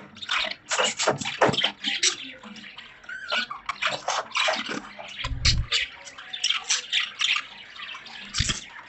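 Budgerigars chirping and chattering, a dense run of short, harsh calls with a few brief whistled glides. Two low bumps come about five and a half seconds in and near the end.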